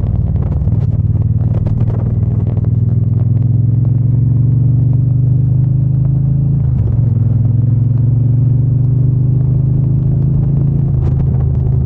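Triumph Bonneville T120's parallel-twin engine and exhaust running under way at steady revs. The note breaks briefly about two-thirds through, then climbs slowly again, with another short break near the end.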